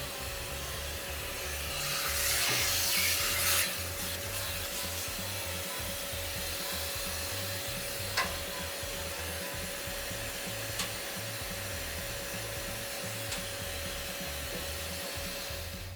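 Brush scrubbing and rubbing soot off the inside of a wood stove, a steady scouring noise that gets louder for a second or two near the start.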